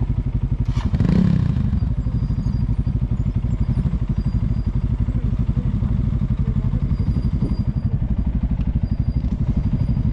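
Motorcycle engine running steadily with an even pulsing beat, on a loose dirt trail. A single clunk about a second in.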